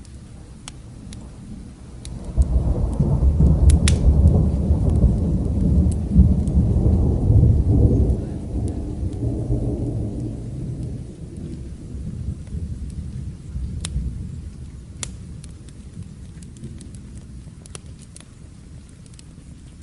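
A deep roll of thunder swells about two seconds in, rumbles for several seconds and slowly dies away. Sharp pops of a crackling fire come throughout, over a faint steady hiss of rain.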